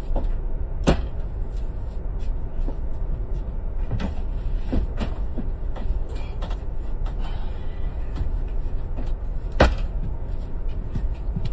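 Airliner cabin with a steady low drone, broken by scattered knocks and clicks, door- or latch-like; the sharpest come about a second in and just before ten seconds in.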